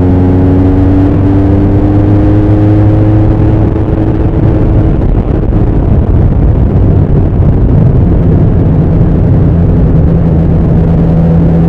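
Bimota SB3's Suzuki GS1000 air-cooled inline-four running under way, its exhaust note rising slowly for the first few seconds as it gathers speed, turning rougher and noisier in the middle, then settling to a steady pitch near the end.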